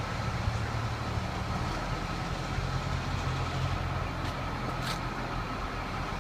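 Heavy diesel truck engine idling steadily, a low even hum with a faint steady whine above it.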